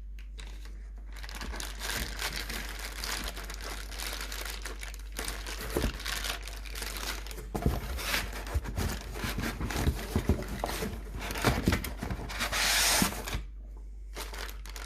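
Packaging being handled during an unboxing: crinkling and rustling with scattered clicks and knocks, and a louder continuous tearing sound lasting about a second near the end.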